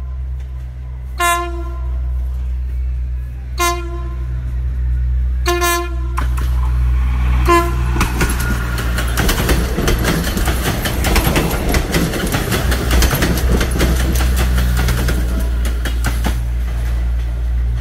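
Philippine National Railways diesel multiple unit sounding four short horn toots about two seconds apart as it approaches, then passing close by with a low rumble and its wheels clattering over the rails.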